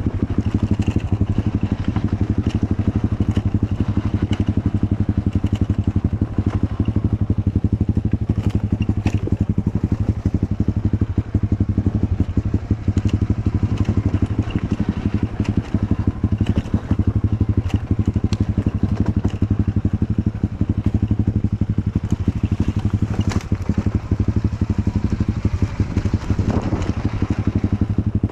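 Enduro motorcycle engine running at steady low revs while riding off-road, with scattered knocks and clatter.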